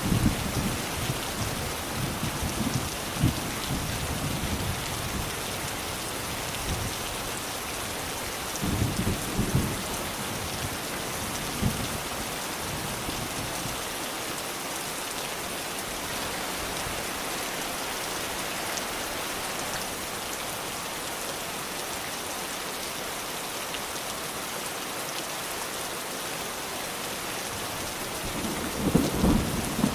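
Steady rain falling in an even hiss, with short low rumbles near the start, about nine seconds in, and again near the end.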